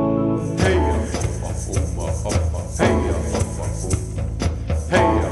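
Live rock and roll band playing an instrumental passage: a held chord stops about half a second in, then the drums and bass carry on with a steady beat.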